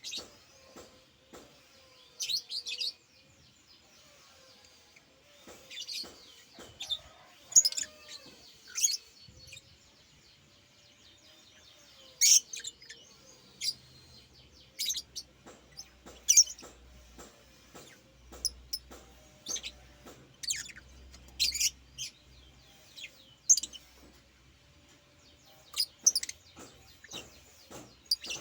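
A pet bird chirping: many short, sharp, high-pitched chirps at irregular intervals, some in quick clusters.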